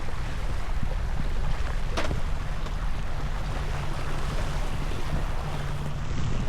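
Wind buffeting the microphone and water rushing along the hull of a Beneteau First 305 sailing in 11-13 knots of wind, with one sharp click about two seconds in.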